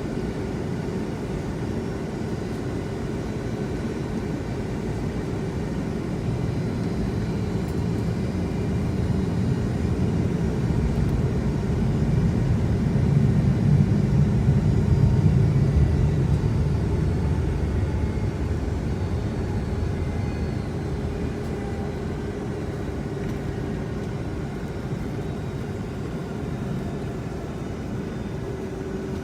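Cabin noise of a Boeing 757-200 airliner: a steady low rumble of engines and airframe with a faint steady hum. It swells to its loudest about halfway through, then eases off.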